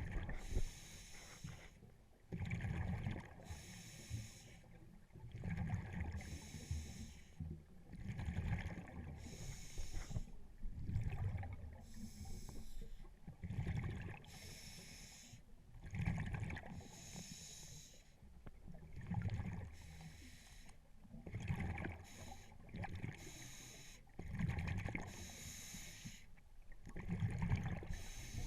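Scuba diver breathing through a regulator underwater: a hiss on each inhale and a bubbling rush of exhaled air, repeating steadily every few seconds.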